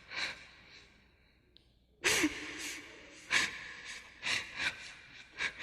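Sharp, irregular breaths and sniffs, like people weeping. They are quieter for the first two seconds and then come louder and closer together.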